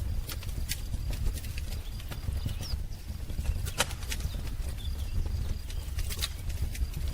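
Wood fire crackling: irregular sharp pops and snaps over a steady low rumble of burning. A few short, faint bird chirps come through, one about three seconds in.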